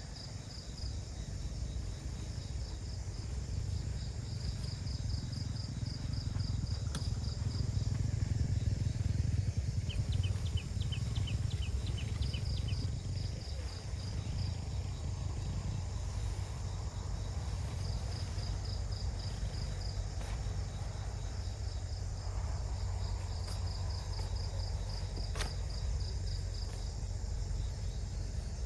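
Forest insects chirping in repeated quick trains of high pulses, with another short run of chirps about ten seconds in, over a steady low rumble and a couple of faint clicks.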